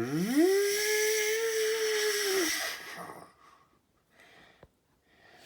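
Imitated jet-engine start for the model airliner's number-two engine: a whine rises over about half a second and holds steady with a hiss. It fades out about three seconds in.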